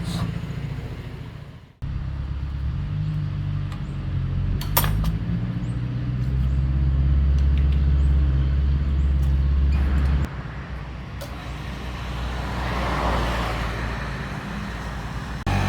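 Restored water pump machine running with a steady low hum, heavier in the middle stretch. It cuts off abruptly about two seconds in and changes suddenly twice more, and a rushing hiss swells briefly near the end.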